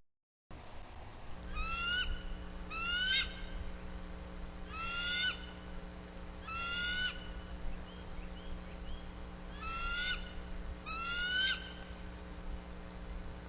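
A bird calling off and on: six short calls that rise in pitch, in three pairs, over a steady electrical hum.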